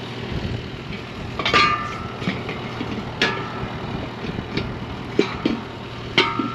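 A tractor engine idling steadily while steel parts of a disc harrow clank, with four sharp metal knocks that each ring briefly, among lighter knocks.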